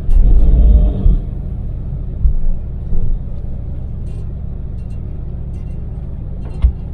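Daewoo Damas LPG microvan driving at expressway speed: a steady low engine and road drone. A heavier low thumping lasts about a second at the start, and a few shorter low thuds come later.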